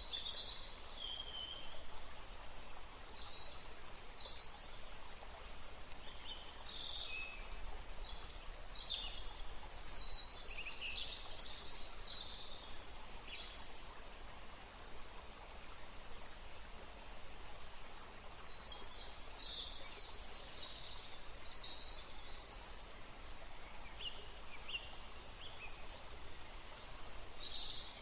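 Wild birds chirping and singing in short bursts of many overlapping calls, busiest in two spells with a thinner stretch between, over a steady background hiss.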